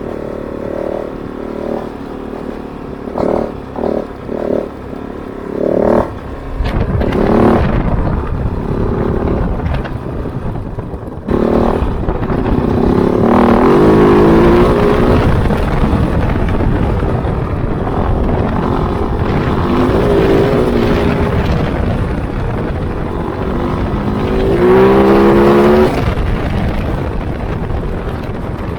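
Kove 450 Rally's single-cylinder engine under way on dirt. It gives a few short throttle blips in the first seconds, then pulls harder with revs rising and falling several times, loudest around the middle and near the end, over a steady low rumble.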